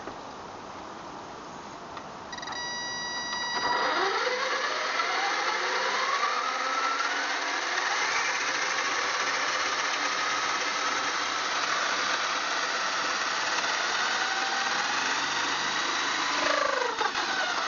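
540 brushed electric motor driving metal spur and pinion gears on an RC monster truck running with its wheels off the ground. It starts with a short steady tone, then about four seconds in spins up into a whine whose pitch rises and falls with the throttle and drops away near the end.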